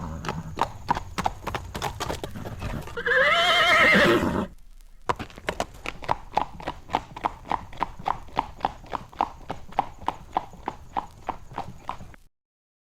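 Horse hoofbeats, then a horse whinnies once with a wavering neigh about three seconds in. After a short pause the hoofbeats resume at a steady pace as the horse leaves, cutting off abruptly near the end.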